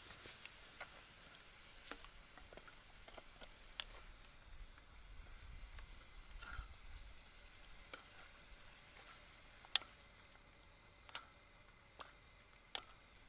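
Pan of asam pedas (spicy-sour snakehead fish) cooking, a faint steady sizzle with scattered small pops and clicks, one sharper about ten seconds in.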